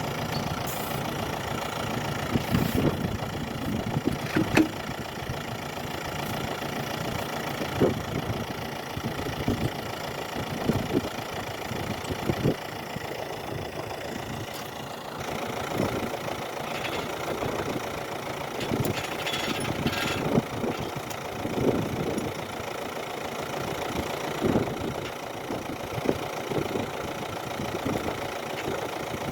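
An engine running steadily at idle, with short knocks and clunks scattered over it.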